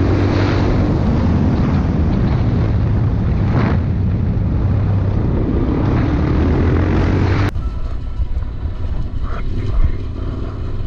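Motorcycle engine running under way, with a steady hum slowly rising in pitch under loud rushing noise. About seven and a half seconds in it cuts abruptly to a quieter engine and road noise.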